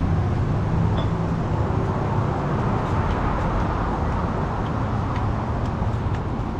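Street traffic: steady road noise with a vehicle's engine hum that is strongest in the first second or two.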